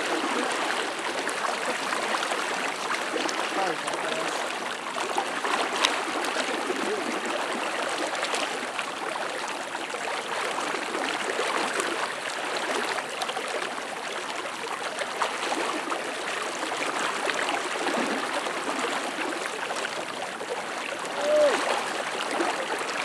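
Steady rush of fast-flowing river water from the flooded Arkansas River, with one short chirp near the end.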